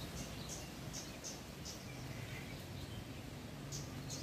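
Small birds chirping: short, high chirps at irregular intervals, several in the first two seconds and a couple more near the end, over a steady low background hum.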